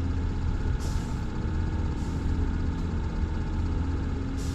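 Boat motor running steadily, a constant low rumble and hum, with a few short bursts of hiss.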